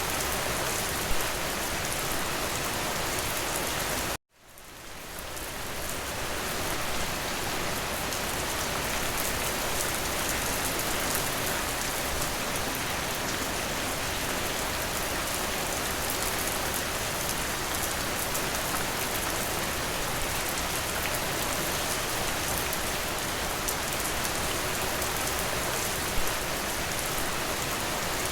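Steady heavy rain pattering on a window. About four seconds in the sound cuts out abruptly and fades back up over a couple of seconds, with a couple of single louder drop hits near the start and near the end.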